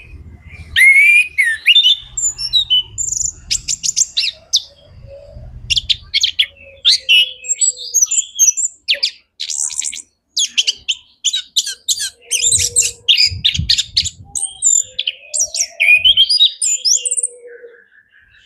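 Male chestnut-capped thrush (anis kembang) singing a loud, varied song of rapid chattering trills and short whistled phrases, full of mimicked notes (isian), with a few low thumps underneath.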